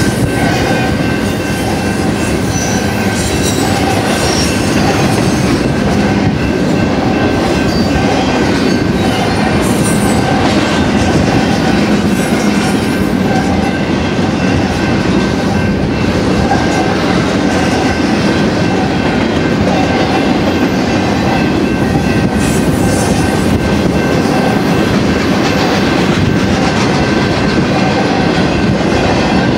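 Double-stack intermodal well cars of a freight train rolling past at close range: steel wheels running on the rails, loud and steady throughout.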